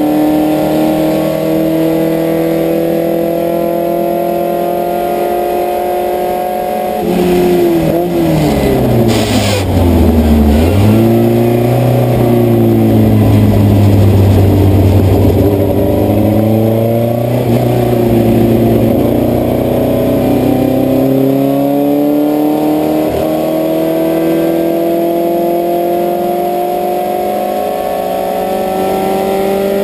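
Puma GTS race car's air-cooled Volkswagen-based flat-four engine, heard from inside the car while racing. It holds high revs, then drops in pitch with quick throttle blips as it downshifts under braking about seven seconds in. Its pitch rises and falls through the corners, then climbs steadily as it accelerates over the last ten seconds.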